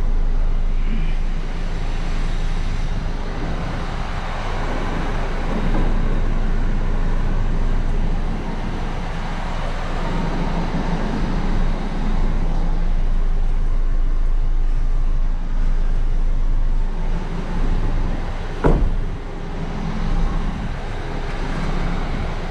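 Steady background rumble of road traffic, with one sharp knock about three-quarters of the way through.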